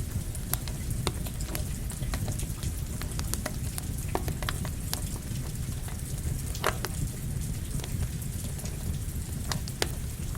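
Campfire crackling, with frequent irregular pops and snaps over a steady rush of rain.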